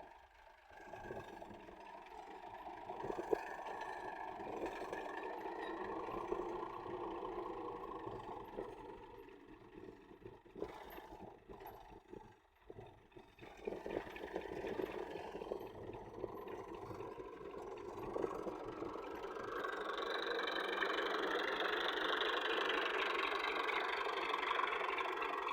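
Tractor engine running steadily, with a few knocks midway, then getting louder for the last several seconds.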